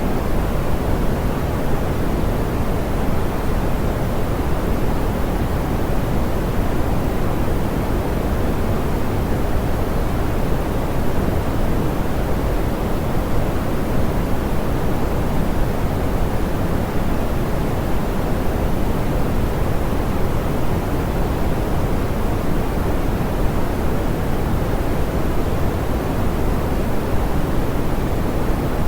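Steady, soft pink noise: an even hiss-like rush, heaviest in the low end and rolled off in the highs, with no change.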